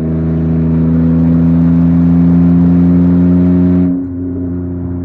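Car engine and exhaust running under steady throttle, sounding mean with an exhaust leak where a bolt has fallen out of the pre-cat/J-pipe joint. The throttle eases off about four seconds in and the engine note drops.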